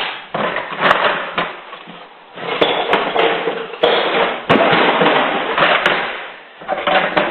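Hand tools clattering and rattling in irregular bursts of clicks and knocks as someone rummages through them looking for a pair of channel-lock pliers.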